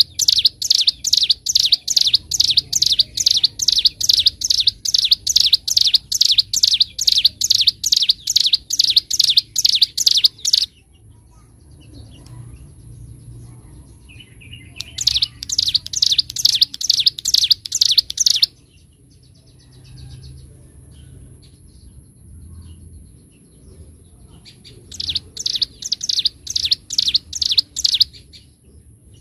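Ciblek gunung, a prinia, singing loud runs of rapid, sharply repeated high chirps. A long run of about ten seconds is followed, after pauses, by two shorter runs.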